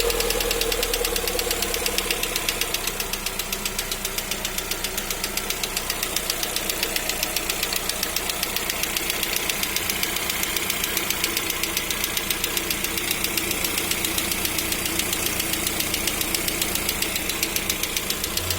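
Lada Vesta engine running with a fast, regular knock; the dealer calls it nothing serious, something that happens on new cars during engine break-in at about 575 km.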